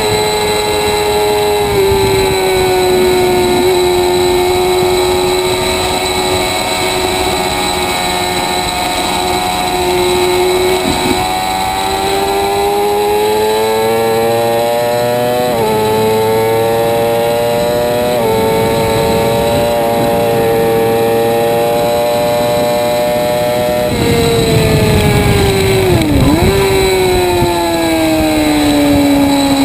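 Sport motorcycle engine at high revs on a race track, heard from onboard over wind rush. The engine note climbs and drops back twice in the middle as the rider shifts up. Near the end the revs fall away with a sharp dip as the rider brakes and downshifts into a corner, then climb again.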